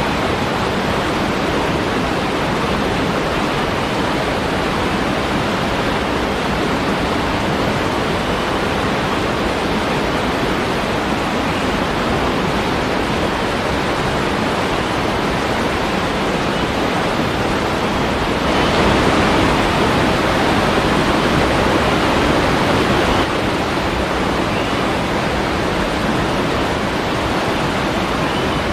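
Steady rushing of falling water from a waterfall, growing louder and brighter for about five seconds some two-thirds of the way in.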